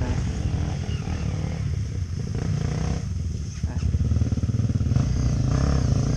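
Dirt bike engine running and revving as the bike comes near, growing louder over the last couple of seconds.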